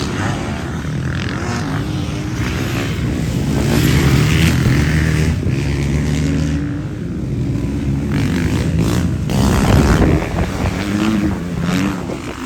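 Motocross bike engines racing, revving up and down, loudest about four seconds and again about ten seconds in.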